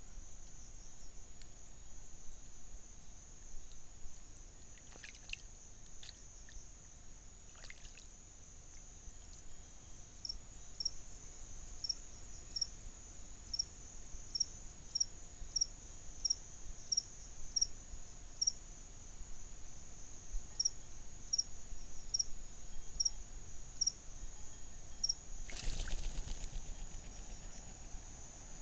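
Insects trilling steadily on one high note, with a short high chirp repeating about one and a half times a second through the middle. Near the end comes a brief louder burst of noise.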